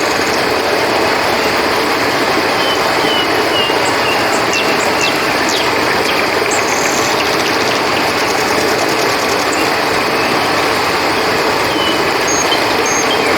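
Steady rushing of flowing river water, with a few short high chirps over it about two to five seconds in and again near the end.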